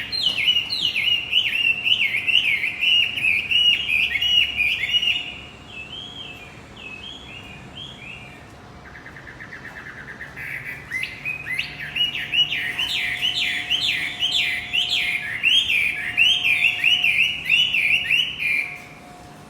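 Male wambi bird singing a rapid chattering song of quickly repeated chirps, in two long bouts separated by a few seconds of softer notes and a short buzzy trill.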